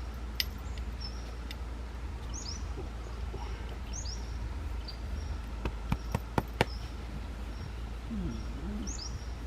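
A bird chirping over and over outdoors, a short high hooked call repeated every second or two, over a steady low rumble. A few sharp clicks come close together a little past the middle.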